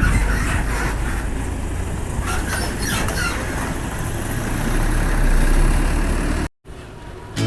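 Large bus diesel engine running with a steady low rumble. The sound cuts off abruptly about six and a half seconds in.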